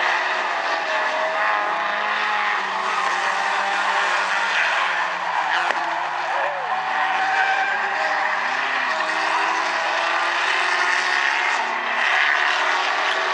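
A field of Stinger 8 figure-8 race cars running together on track, several engines at full throttle overlapping and shifting in pitch, with tire noise in the corners.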